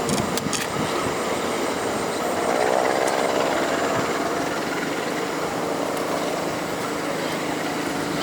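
Diesel-hauled train running past, a steady engine drone mixed with rail and wheel noise.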